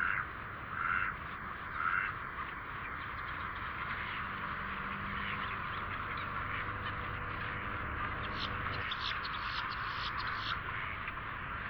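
A flock of ducks and other waterbirds calling while feeding: three loud quacks in the first two seconds over a steady chatter of bird calls. A run of sharp, rapid calls comes in near the end.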